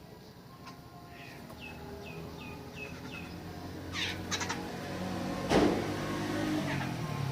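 Backyard birds calling: a run of short down-slurred chirps, about three a second, then sharper calls and one loud, harsh call about five and a half seconds in. A low engine hum, like a passing vehicle, swells underneath in the second half.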